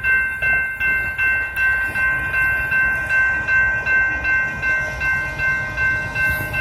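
Railroad grade-crossing warning bell ringing steadily at about three strokes a second, with the low rumble of an approaching train growing near the end.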